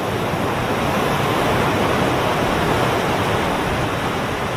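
Audience applauding, a dense steady clapping that swells up and holds.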